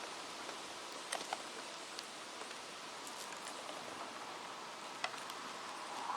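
Wind rustling through leaves as a steady hiss, with a few short faint ticks scattered through it.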